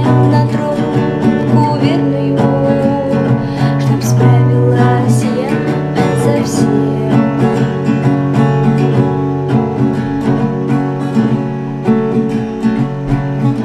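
Acoustic guitar strumming chords, a wordless instrumental passage of the song.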